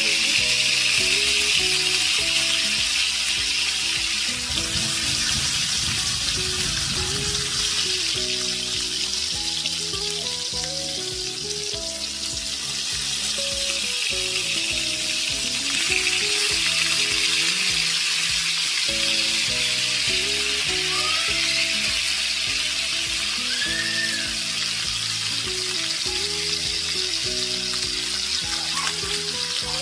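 Minced-meat chapli kababs and tomato slices sizzling steadily as they shallow-fry in oil in a pan, with instrumental background music underneath.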